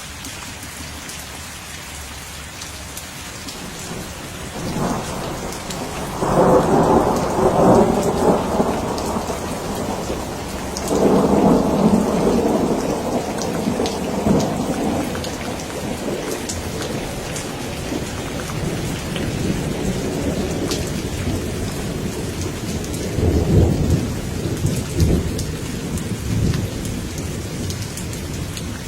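Steady rain falling, with thunder rolling in three long rumbles that swell and fade, a few seconds in, about a third of the way through, and again near the end.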